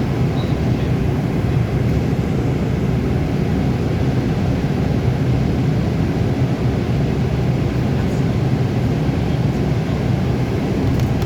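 Scania K280UB city bus's diesel engine running steadily with a constant low drone, heard from inside the bus along with road noise.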